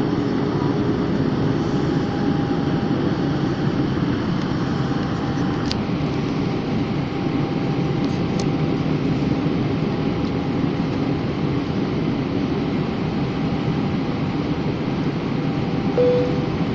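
Aircraft cabin noise in flight: a steady, even drone of engines and airflow with a faint constant tone, and a single sharp click about six seconds in.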